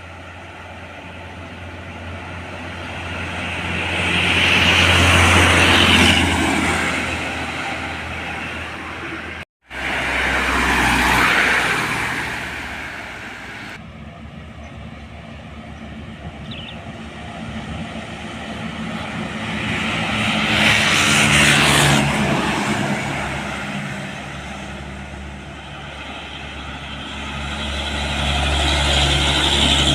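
Large road vehicles passing one after another: engine and tyre noise swells and fades about four times, with a sudden break about ten seconds in.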